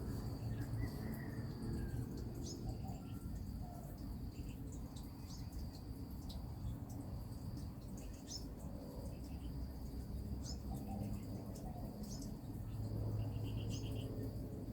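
Outdoor birdsong: scattered short bird chirps and a brief rattling trill near the end, over a steady high-pitched insect drone and a low background rumble.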